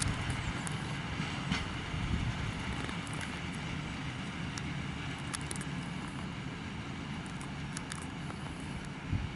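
Freight train of open coal wagons rolling on the track: a steady rumble that slowly fades, with a few sharp clicks and metallic squeaks.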